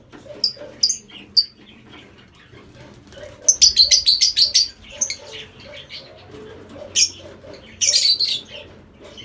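Lovebirds chirping: three short, sharp, high chirps near the start, then a rapid run of chirps in the middle, a single chirp, and another quick run near the end.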